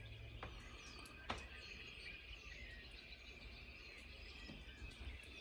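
Quiet outdoor ambience with faint high chirps and two small clicks, about half a second and just over a second in.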